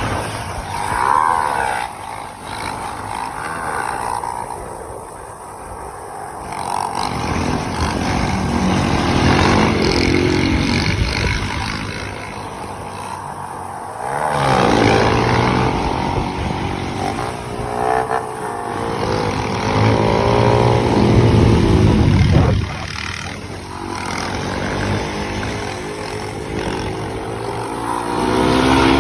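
Motorcycle engines revving, their pitch rising and falling in several swells as bikes ride by.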